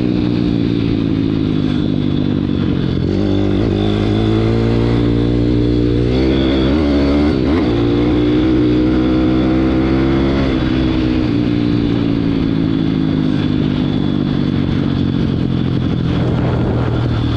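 WPB 160 pit bike's single-cylinder four-stroke engine running under a rider, revs rising about three seconds in, wavering up and down in the middle, then easing back down about eleven seconds in.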